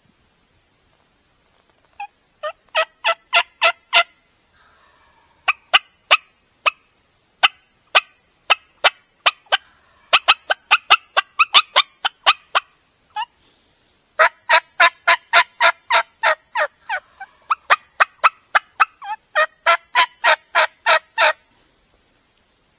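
Turkey yelping: several runs of loud, sharp, evenly spaced notes, about three to four a second. Near the middle the notes come faster and more ragged, like cutting.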